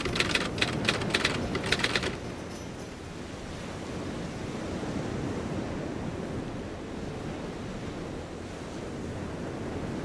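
Ocean surf sound effect: a steady wash of waves that swells gently about halfway through. A quick run of about a dozen typewriter-like key clicks comes in the first two seconds, while the text is typed out.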